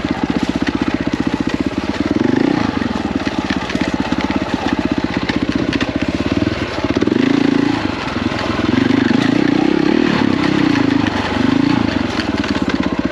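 KTM 450 EXC's single-cylinder four-stroke dirt bike engine under hard throttle, revving up and falling off again and again as the bike is ridden fast. It surges loudest about two seconds in, around seven seconds in and again between nine and twelve seconds.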